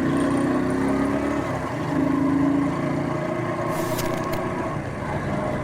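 Motor vehicle running along a road: a steady engine drone mixed with road and wind noise, with a couple of brief clicks about four seconds in.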